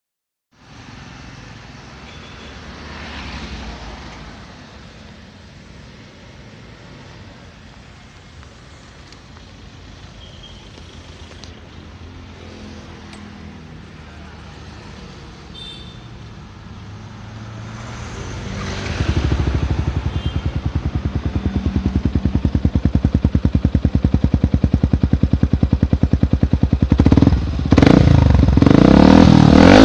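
Yamaha single-cylinder sport motorcycle with a Daytona GP Taper Slash aftermarket exhaust, idling with a deep bass note. It is quiet at first, gets much louder about two-thirds of the way in, and is revved up and down in quick blips near the end.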